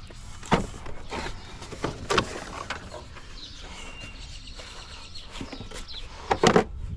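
Scattered sharp knocks and clunks of hand work on a truck, about four spread through, the loudest a quick cluster near the end, with a bird calling faintly in the middle.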